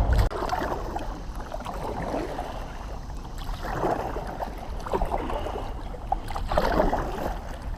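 Kayak paddle strokes dipping and splashing in the river water, coming as irregular swells every second or two, over a low steady wind rumble on the microphone.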